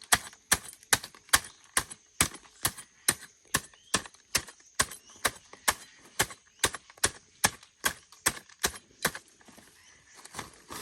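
A steady series of sharp strikes, about two and a half a second, that stops about nine seconds in.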